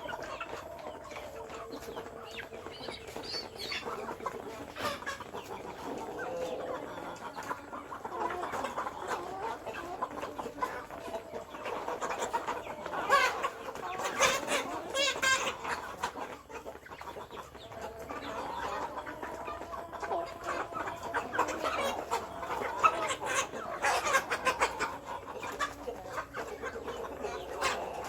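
A flock of chickens clucking, many birds calling over one another, with louder, sharper calls about halfway through and again later on.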